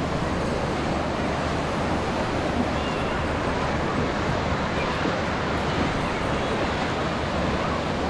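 Surf breaking and washing on a sandy beach, with wind buffeting the microphone; a steady, unbroken rush.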